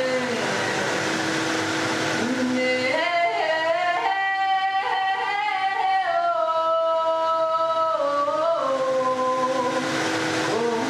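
A woman singing long wordless held notes that slide and step between pitches, over the steady drone and rushing noise of a running Vitamix blender.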